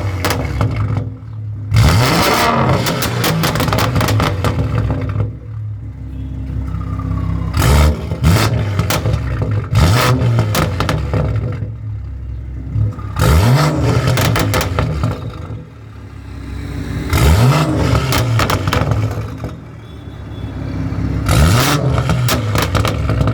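BMW 340i's turbocharged B58 straight-six with an aftermarket exhaust, revved about six times from idle, each rev rising in pitch and then falling back with a rapid crackle of pops from the exhaust.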